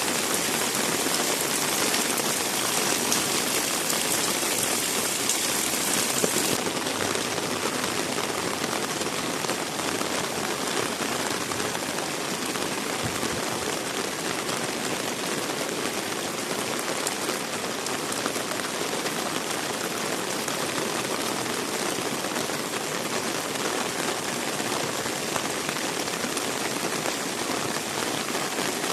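Heavy rain falling in a steady, dense hiss. About six seconds in, the brightest, hissiest part of the sound drops back a little.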